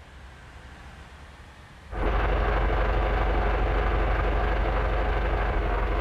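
Scania bus engine running: a faint low hum, then about two seconds in the sound jumps abruptly to a loud, steady, deep rumble.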